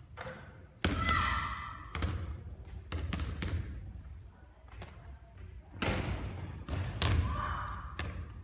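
A basketball bounces hard about nine times, with ringing metallic clangs about a second in and again around six to seven seconds in, as from the ball striking the rim or backboard on three-point attempts.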